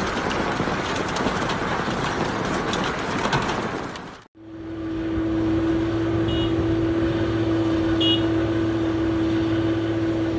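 Heavy rain and pouring water splashing, a dense crackling hiss that cuts off sharply about four seconds in. It gives way to a steady motor hum with a low drone beneath it, fitting the tanker truck's engine running as it pumps floodwater.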